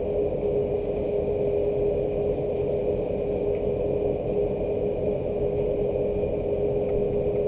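Steady low rushing noise with a constant hum running through it, unchanging throughout.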